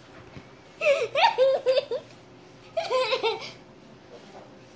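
High-pitched laughter in two bursts, the first about a second in and the second near three seconds in.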